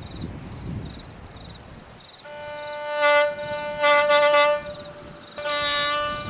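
Low rumbling background for about two seconds. Then one instrument starts holding a steady, reedy note over a lower drone, swelling three times into louder, brighter, buzzy bursts.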